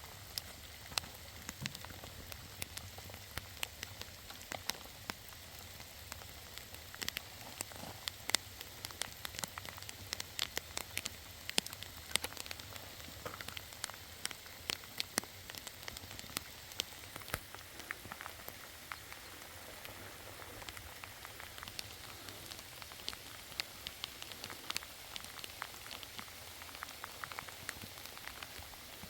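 Steady rain falling, with many sharp drops ticking and splatting close by over a constant hiss.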